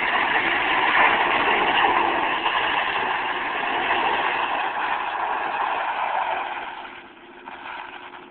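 Dodge pickup truck doing a burnout: engine held at high revs with the tires spinning on the pavement, loud and steady, then easing off and dying away about seven seconds in.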